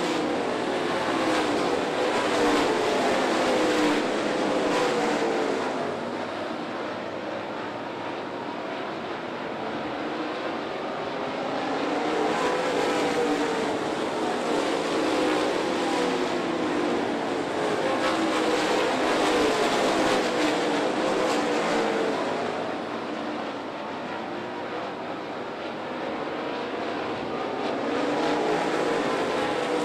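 A field of dirt late model race cars running laps at speed, their V8 engines running hard. The engine sound rises and falls over several seconds as the pack comes past and goes off down the track, several times.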